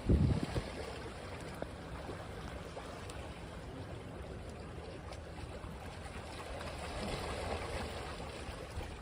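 Waves washing on a beach: a steady hiss of surf that swells a little near the end, with a low buffet of wind on the microphone in the first half-second.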